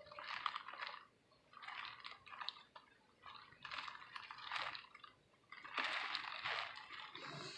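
Hurricane-force wind driving rain in gusts: four surges of hiss about a second long, with short lulls between them.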